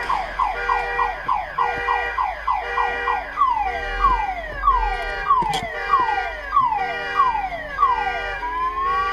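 Car alarm sounding and cycling through its tones: rapid falling chirps, then slower falling sweeps about twice a second over a pulsing steady tone, and a rising tone near the end.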